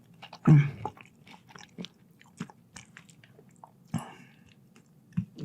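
Close-miked chewing of fries, with scattered wet mouth clicks and a few louder bites, the loudest about half a second in.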